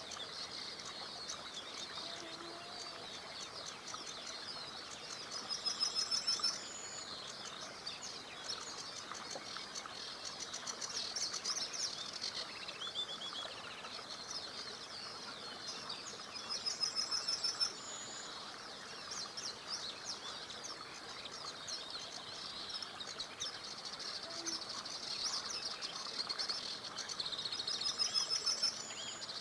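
Several songbirds singing together, with dense high chirping throughout. A rapid trill of quickly repeated notes, about a second long, stands out three times, roughly every eleven seconds. Beneath it runs a steady even hiss of a small river.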